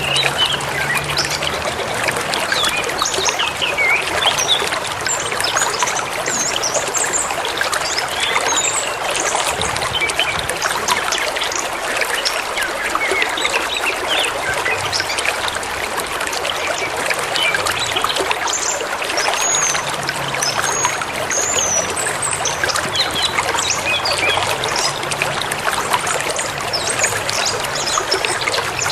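A river running steadily, with many short bird chirps and calls over the water.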